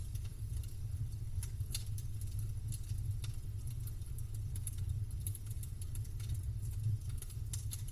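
Campfire burning, the wood crackling in sharp, irregular pops over a steady low rumble.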